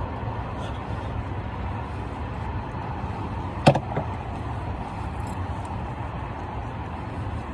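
Steady low rumble of a car, with one sharp click a little under four seconds in.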